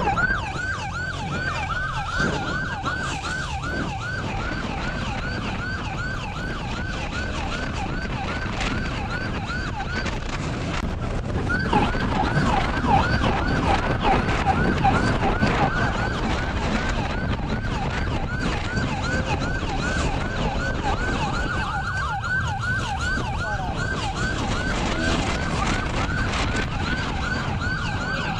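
Police car siren in quick repeated yelp sweeps, about three a second, over steady engine and road noise from the pursuing patrol car.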